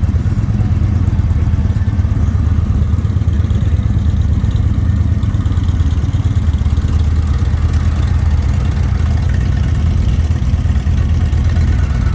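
Indian motorcycle's V-twin engine idling steadily with a low, even rumble.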